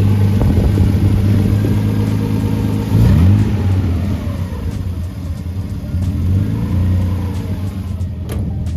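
The naturally aspirated 3-litre V6 from a Nissan 300ZX, in a hot-rod roadster, running under way. The revs climb quickly about three seconds in, then settle and rise and fall a little as the car turns around.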